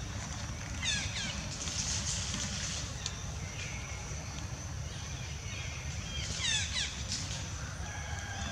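Outdoor ambience: a steady high-pitched drone over a low rumble, with two quick runs of falling bird chirps, about a second in and again about six and a half seconds in.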